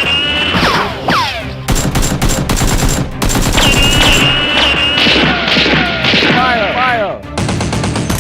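Bursts of rapid automatic gunfire, with short falling whistle-like tones, over background music.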